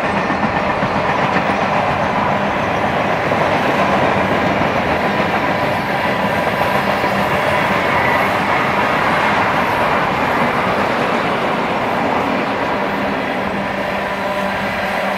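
A freight train's tank cars and autoracks rolling past on steel wheels, a steady sound of wheels running on the rails.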